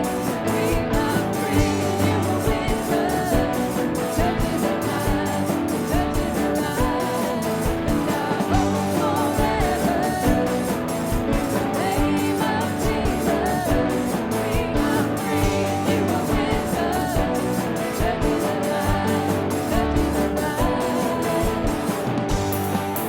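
Live worship band playing a song with guitars, bass and drums, with singing.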